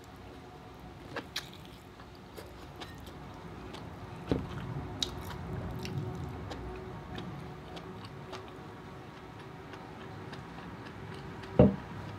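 Close-miked eating sounds of someone chewing soft lobster meat, with wet mouth noises and small clicks. A knock comes about four seconds in, and a louder, sharp knock comes near the end.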